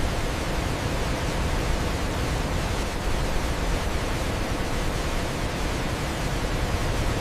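Waterfall, a steady full rush of falling water with no breaks.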